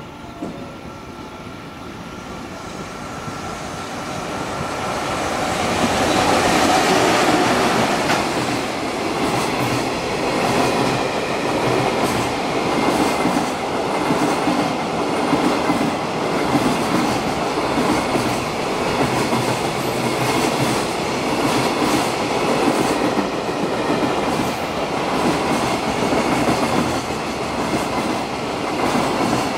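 JR Freight EF66 electric locomotive and its freight train passing through a station at speed. It grows louder over the first six seconds or so as it approaches, then the wagon wheels clatter steadily over the rail joints.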